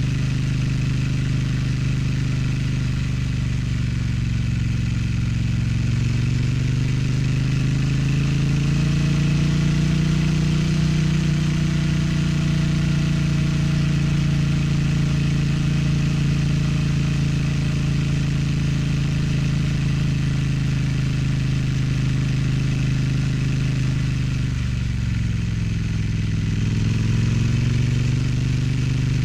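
Triumph Street Twin's 900 cc parallel-twin engine and exhaust under way on a ride. The engine note climbs over the first ten seconds or so and holds steady. About 25 seconds in it drops briefly, then climbs again.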